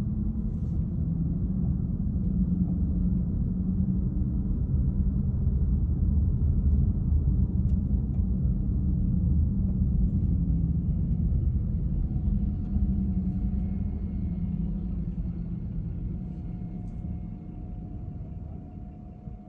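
Car driving along, a steady low rumble of engine and road noise. It dies down over the last few seconds.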